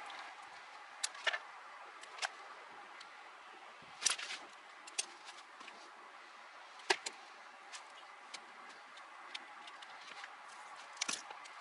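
Irregular light clicks and taps of hands and small tools working on car wiring, splicing remote-start wires into the ignition harness, over a faint steady hiss. The sharpest click comes about four seconds in, with a cluster near the end.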